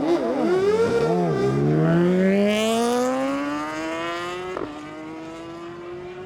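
Superbike engine blipped up and down on the start line, then launched and held in one long rising run of revs, with an upshift about four and a half seconds in, fading as the bike pulls away down the drag strip.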